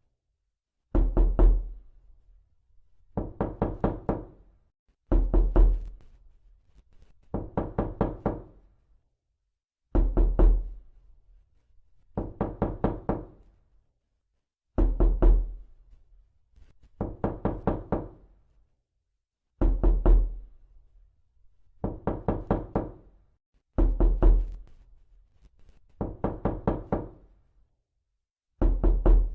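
Knocking: a quick run of several raps, repeated about every two seconds with short silences between. Every other run has a deeper, heavier thud.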